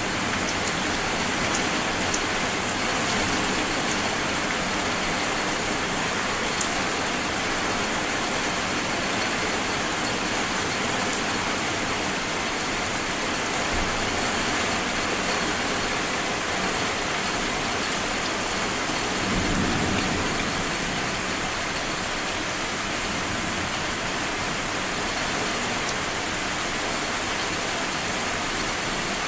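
Steady rain falling during a summer thunderstorm. About two-thirds of the way through there is a brief low rumble of thunder.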